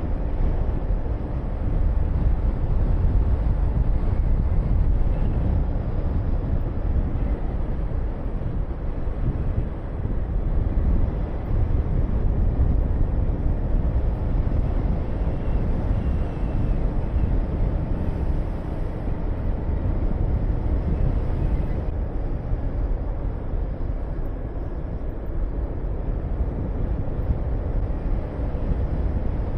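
Honda VTR250's V-twin engine running steadily under way, buried in heavy wind rush on the microphone. The level swells and eases a little but never drops out.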